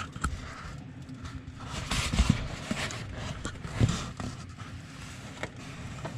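Handling noise: soft rustling and scattered light knocks, with a few sharp clicks.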